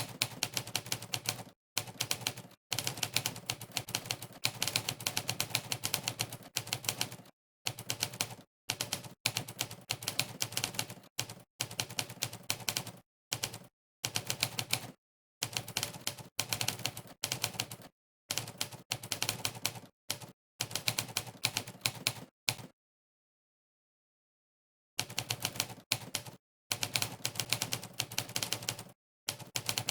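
Monkeytype's typewriter keystroke sound effect, one clack per key press, in fast bursts of rapid typing broken by short, dead-silent pauses. About two-thirds of the way through, the typing stops for roughly two seconds.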